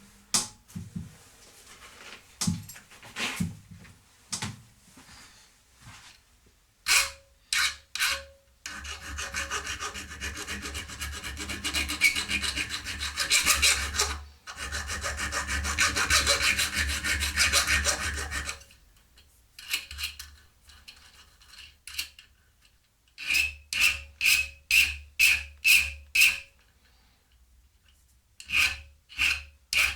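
Hand file rasping across the cut end of a steel threaded rod, deburring its sharp thread edges. Scattered single strokes at first, then a long run of quick strokes in the middle, and after a pause, quick even strokes of about two or three a second near the end.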